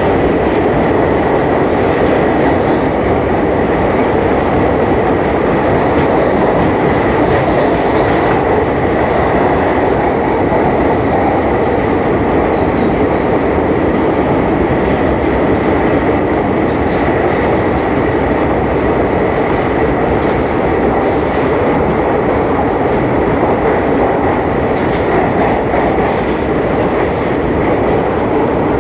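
A moving passenger train running steadily on the track: a continuous loud rumble and rattle of wheels and carriage, with a faint steady whine and short high-pitched flickers coming and going.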